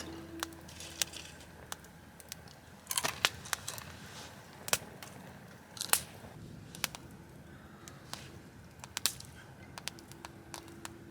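Irregular sharp clicks and crackles, single snaps and small clusters a second or few apart, over a quiet background.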